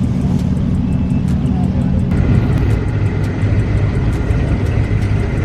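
Car engine running with a steady low rumble, with crowd chatter over it; about two seconds in, the rumble shifts and a thin high tone joins it.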